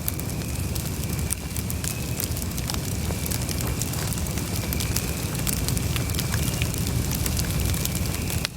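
Campfire burning: a steady low rumble of flames with frequent sharp crackles and pops from the burning wood, and a faint steady high whistle underneath.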